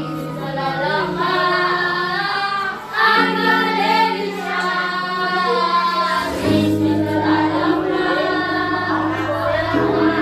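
Choir singing in harmony, several voices holding sustained chords that change every three seconds or so.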